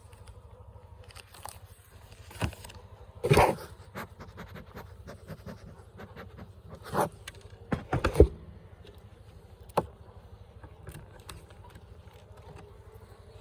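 Wooden beehive parts being handled and pried apart: scrapes and sharp knocks, the loudest about three seconds in and a quick cluster a little past the middle, with a faint hum of bees later on.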